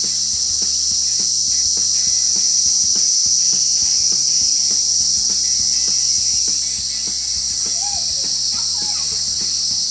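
Dense chorus of rainforest insects, a loud steady high-pitched drone, with footsteps on the walkway about twice a second beneath it. A brief bird call comes in near the end.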